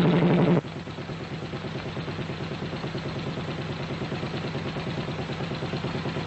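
Motorcycle engine running with a rapid, even exhaust pulsing; it drops suddenly to a quieter level about half a second in, then slowly grows louder.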